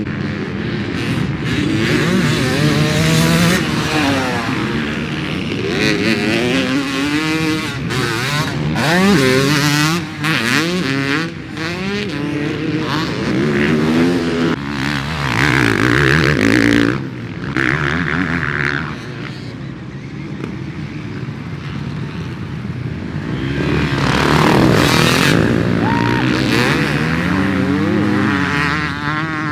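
Two-stroke dirt bike with a Bill's Pipe expansion-chamber exhaust, ridden hard. The engine revs up and drops off again and again, rising in pitch through each gear, with a quieter, steadier stretch a little past the middle.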